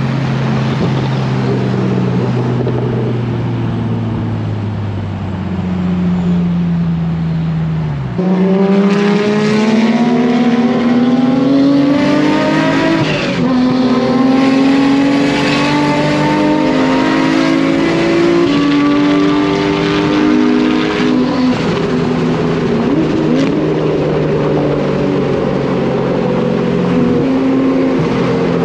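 Nissan Skyline R34 GT-R's big-turbo RB26 twin-cam straight-six, heard from inside the cabin, pulling hard with its note rising, upshifting twice with a sudden drop in pitch each time, then settling toward a steadier cruise. It follows a few seconds of a car engine note falling slowly as the car eases off.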